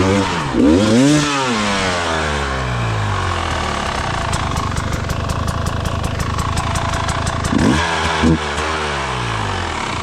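Gas Gas dirt bike engine blipped in quick revs that rise and fall, then running at low revs for several seconds, with a run of rapid clicks partway through; two more short revs come near the end.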